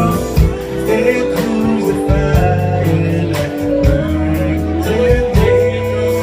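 Live band playing a slow R&B song, with a held bass line, steady drum hits and guitar. A singer's voice comes and goes over it.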